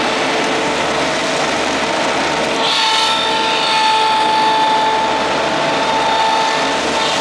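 Kubota D1105 three-cylinder diesel engine of a ride-on vacuum running steadily, with the vacuum fan's steady whine over it. A brighter hiss comes in about three seconds in.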